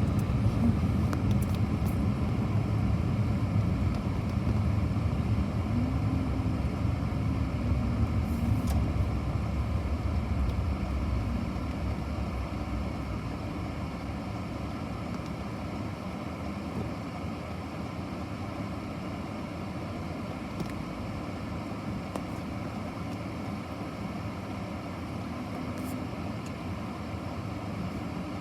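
Steady low rumble of a car driving, louder for about the first eleven seconds and then easing a little quieter.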